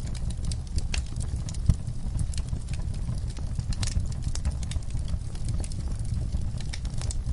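Wood logs burning in a fireplace, crackling with frequent irregular sharp pops over a steady low rumble of flame; one louder pop comes a little under two seconds in.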